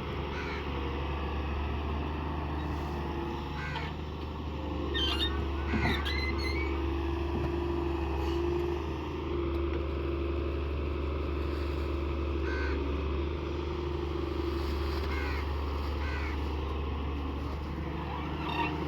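Engine of a farm machine running steadily at an even pitch, with crows cawing now and then over it.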